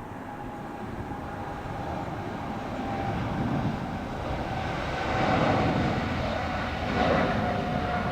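Jet airliner engines, a steady rush with a faint whine, growing louder as the plane approaches.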